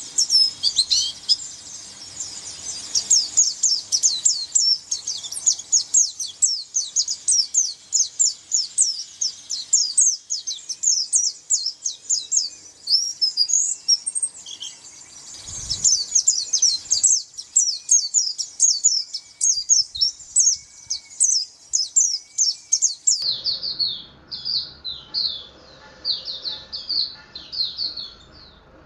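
Pleci (white-eye) songbird singing a long, fast run of high chirps. About 23 s in, the sound changes abruptly to slower, separate chirps in short phrases.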